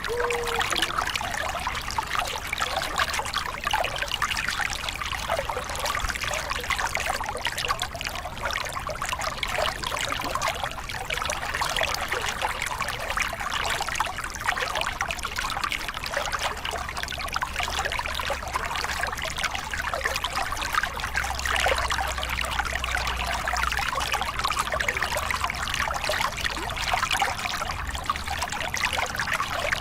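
Small cascade on a forest river: water splashing and flowing over it steadily and evenly, with a low rumble underneath.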